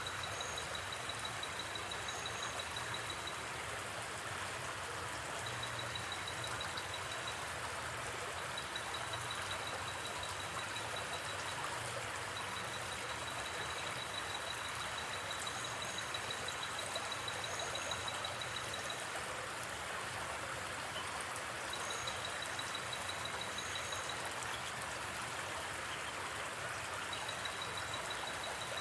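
Steady rush of a gently flowing river, overlaid by an insect's fast pulsed high trill that comes in runs of a few seconds at a time, with a few short paired chirps higher still.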